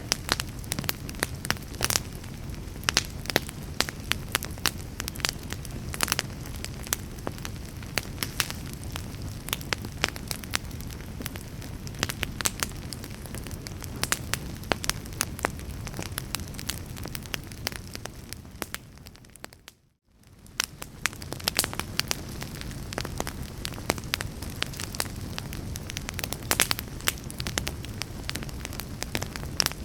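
Wood fire burning in a fireplace: steady crackling with frequent sharp pops over a low rumble. About two-thirds of the way through, the sound fades out to near silence for a moment and then fades back in.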